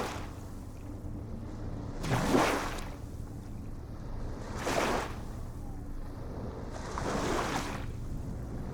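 Ocean waves breaking and washing in, one surge about every two and a half seconds, over a steady low rumble.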